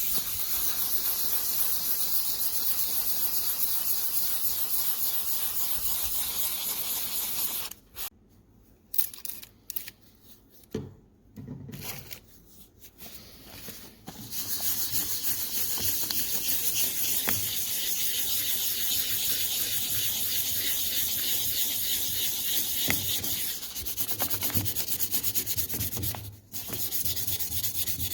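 Steady abrasive rubbing, a hand-sanding type of hiss, as a part of the antique kitchen scale is worked down for refinishing. It stops for about six seconds, with a few light knocks, resumes, and pauses briefly near the end.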